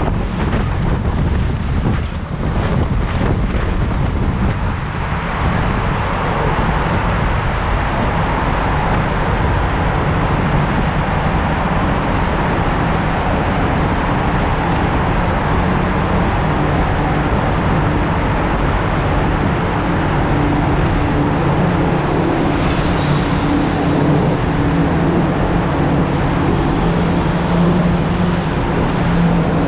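Motorcycle riding in traffic: the engine runs steadily under wind and road noise, and its hum grows more distinct in the second half.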